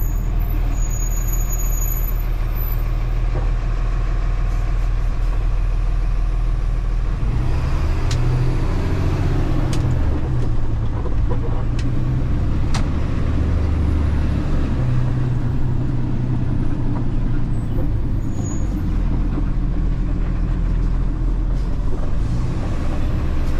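Diesel delivery truck's engine running at a low idle, then about seven seconds in the engine note rises and changes as the truck pulls away and drives on. A few sharp clicks sound a few seconds after it moves off.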